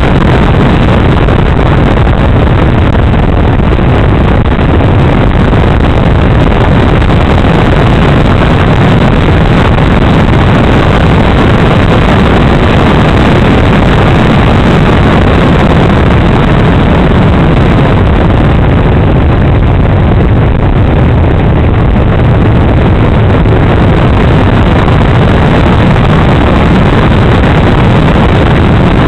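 Steady, loud rush of airflow and motor noise picked up by a camera microphone on the wing of a radio-controlled model plane in flight, unchanging throughout.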